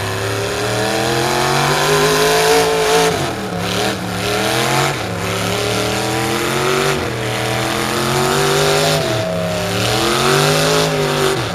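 Pickup truck engine running hard under load while pulling a sled, its pitch climbing and dropping back about every two seconds.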